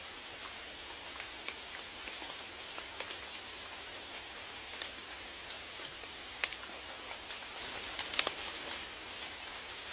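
Steady rain hiss with single raindrops striking close by as scattered sharp taps, the loudest about eight seconds in.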